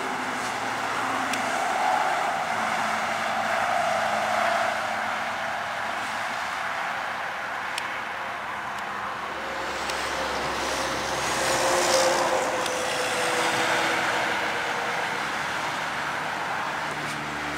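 Road traffic going by, with a vehicle passing loudest about twelve seconds in, its pitch dropping as it goes past.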